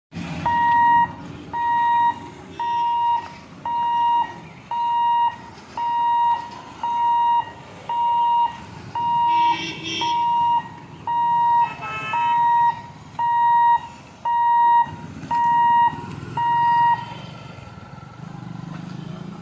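Electronic warning beeper at a railway level crossing sounding a steady high beep about once a second, sixteen times, then stopping near the end, over a low rumble of idling road traffic. A short vehicle horn sounds about halfway through.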